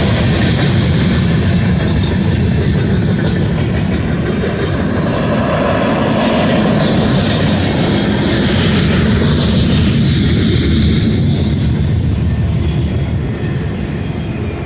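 Freight train rolling past at close range: a loud, steady noise of wheels running on the rails.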